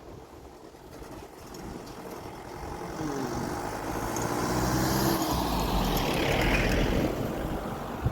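A train approaching and growing steadily louder: a low rumble with a humming drone and rising track noise and hiss.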